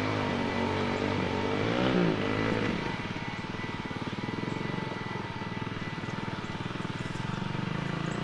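Dirt bike engine revving up and down for about the first three seconds, then running steadily at low revs with an even, rapid pulse.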